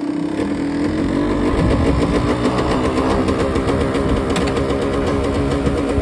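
Kawasaki KDX125SR's single-cylinder two-stroke engine running near idle, its pitch steady at first and then wavering unevenly.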